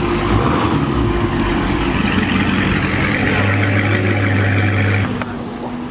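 Car engine idling with a steady low drone; a deeper hum strengthens in the second half and drops away sharply about five seconds in.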